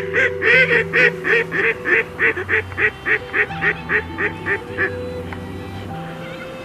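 Waterfowl calling: a run of about eighteen honking quacks at about three a second, loud at first and fading away over some five seconds. Steady background music plays underneath.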